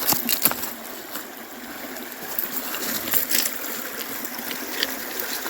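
River water running over a stony bed, a steady rushing hiss. A few sharp clicks sound near the start and again about three seconds in.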